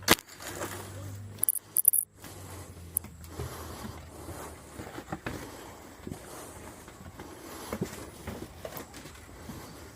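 Handling noise of junk being moved and bagged: scattered knocks, scrapes and rustling, with a cluster of sharp clicks about two seconds in. A low hum sits under the first few seconds and fades out about three and a half seconds in.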